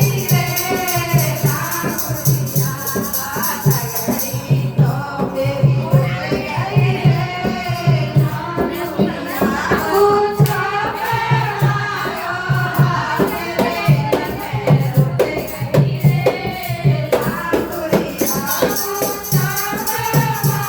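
Languriya folk song: singing over a steady, evenly repeating drum beat with jingling percussion. The high jingling drops out for most of the middle and returns near the end.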